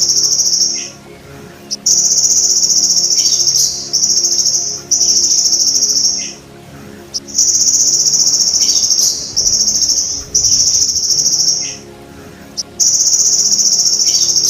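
Belalang emas (golden grasshopper) calling in a loud, high, buzzing trill, in bouts of about one to one and a half seconds with short breaks between them. Faint short chirps come in the quieter gaps.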